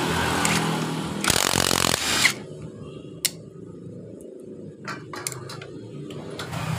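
Impact wrench run on the nut holding the flywheel (magneto rotor) of a Honda Supra X engine: a loud burst of hammering lasting about a second, over a steady low hum, then light clinks of tools and parts.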